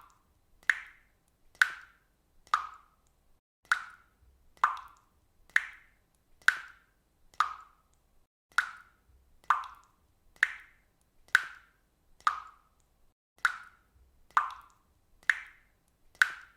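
Water dripping steadily, one drop about every second, each landing with a short plop that varies slightly in pitch from drop to drop.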